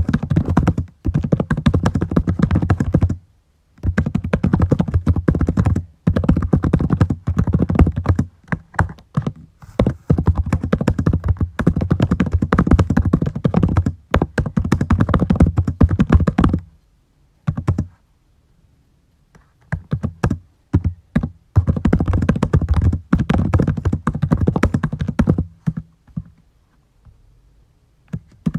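Typing on a computer keyboard in fast bursts of keystrokes, broken by pauses of a second or two, with one longer pause of about three seconds about two-thirds of the way through.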